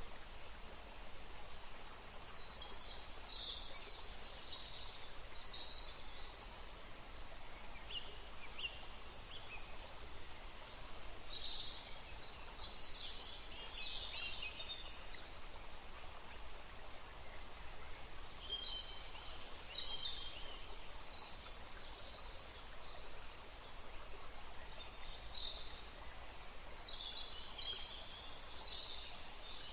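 Woodland ambience: songbirds singing in short bursts of high chirping notes, four bursts a few seconds apart, over a steady background hiss.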